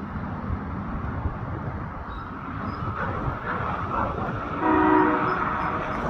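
Diesel locomotive horn sounds one short blast about three quarters of the way in, over a steady low rumble.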